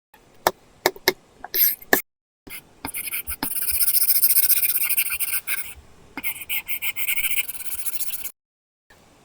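Apple Pencil tip on an iPad's paper-texture screen protector: a few quick taps, then long scratchy drawing strokes.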